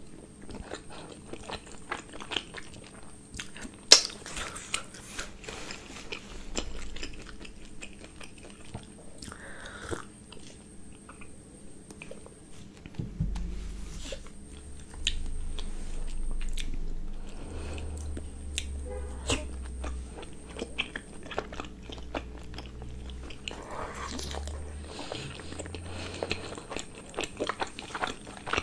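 Close-up sounds of a steamed momo dumpling being chewed: many small sharp mouth clicks, with one much louder click about four seconds in. A low rumble comes and goes through the second half.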